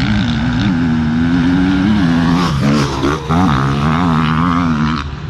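An off-road racing engine running hard at high revs, its pitch wavering with dips and quick rises in the middle as the throttle is blipped, then cutting off abruptly about five seconds in.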